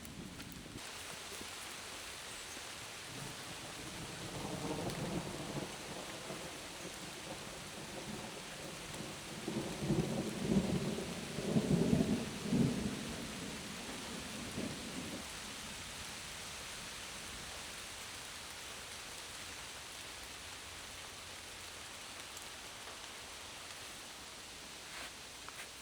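Heavy rain pouring steadily in a forest during a thunderstorm. Thunder rumbles low twice: briefly around four seconds in, then louder and longer around the middle.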